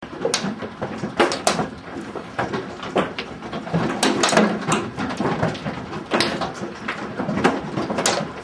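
Hail storm: hailstones striking hard surfaces in a dense, irregular clatter of sharp hits over a steady rush of falling ice and rain.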